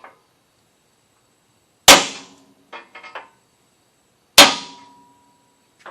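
Hammer striking a punch twice against the steel skid plate, two sharp metallic blows about two and a half seconds apart, marking the bolt-hole locations before drilling. A few light clinks come between the blows, and the second blow leaves a faint ringing.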